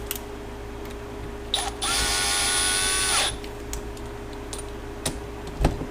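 Compressed-air blow gun blasting for about a second and a half, a steady hiss with a high whistle, used to blow off a freshly cleaned motorcycle starter part. A few light clicks and knocks of handling come before and after.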